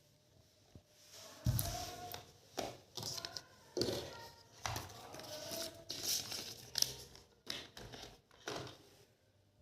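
Smartphone packaging being handled during unboxing: irregular rustling, crinkling and light taps of cardboard and plastic, starting about a second in.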